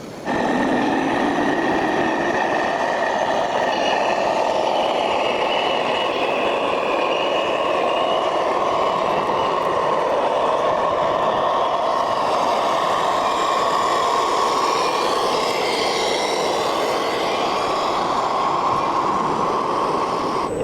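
Radio-controlled model machine running: a steady mechanical drone with whining tones that starts abruptly just after the start and holds.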